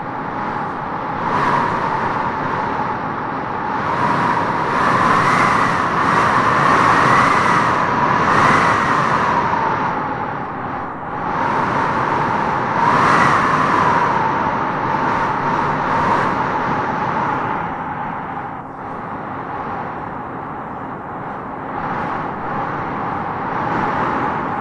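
Wind blowing in gusts, with a whistling howl that rises and falls in pitch. It swells louder around five to nine seconds in and again briefly near thirteen seconds.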